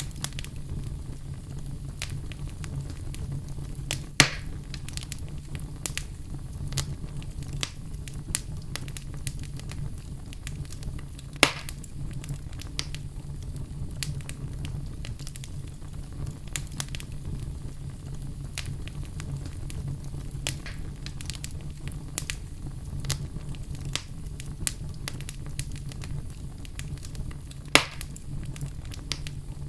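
Wood fire burning in a fireplace: steady crackling over a low rumble of flame, with three louder pops, about four seconds in, near the middle and near the end.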